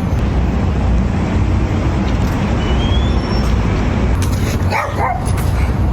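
A small dog barking and yapping, over a steady low background noise.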